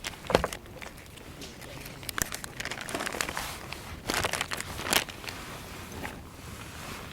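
Crinkling and rustling of something being handled, with a few sharp knocks; the loudest knock comes about a third of a second in.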